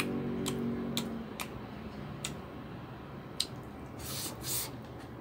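Wet mouth clicks and lip smacks of a man chewing soft braised pork fat, following a hummed 'mmm' that stops about a second in. Near the end come two short sucking sounds as he sucks his fingers.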